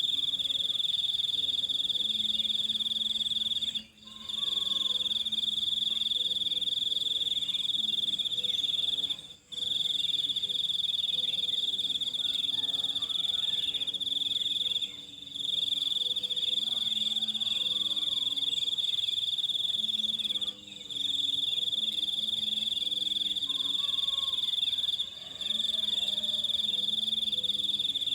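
Steady, high-pitched cricket trill that drops out briefly about every five seconds. Fainter, lower calls can be heard beneath it.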